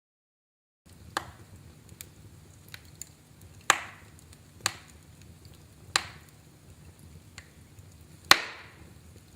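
Wood fire crackling in a fireplace after nearly a second of dead silence at the start: a low steady hiss with five sharp, loud pops and smaller ticks between them.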